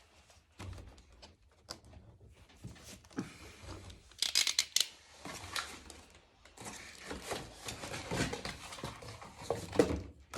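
Packaging being handled and torn open: rustling and tearing with scattered light knocks, loudest in short bursts about four seconds in, then a longer rustle through the second half.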